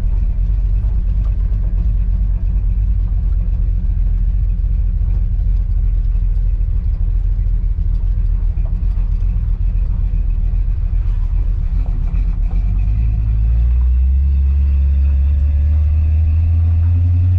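1972 Chevrolet C10 pickup's engine running under way with a steady low rumble. About 13 seconds in the engine note rises and holds louder, as under acceleration.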